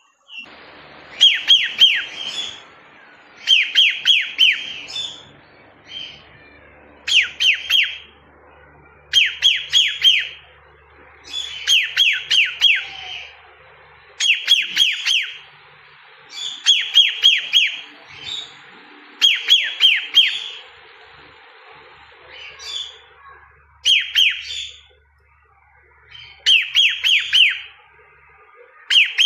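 Cockatiel whistling the same short phrase over and over: a quick run of four to six falling whistled notes, repeated about every two seconds, with an occasional single chirp in between.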